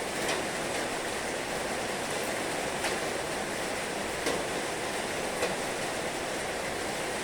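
Heavy rain falling in a steady, dense hiss, with four sharp taps of nearer drops standing out.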